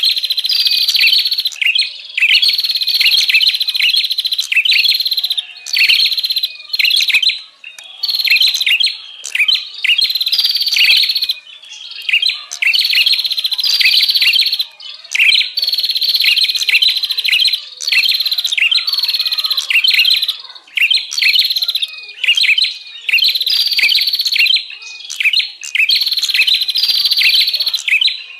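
Prenjak lure recording: a small songbird giving loud, agitated chattering calls in rapid repeated phrases, each one to two seconds long with short pauses between.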